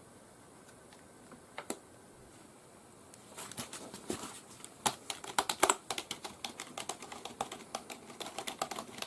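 Keys of a Logicool K275 wireless keyboard being typed on in a quick irregular patter, starting about three seconds in after a single earlier click.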